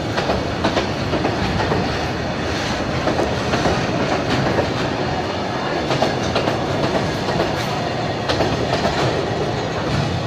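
Freight train of tank wagons rolling past close by: a steady rumble of steel wheels with an uneven clickety-clack of wheels striking the rail joints.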